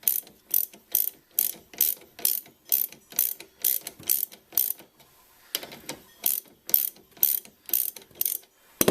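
Ratchet wrench clicking in quick back-and-forth strokes, about two a second, backing off the top nut of a strut. The strokes pause about halfway, then resume, and a single loud knock comes near the end.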